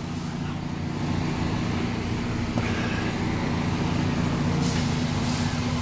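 Steady low mechanical hum, like an engine idling, with a short hiss about five seconds in.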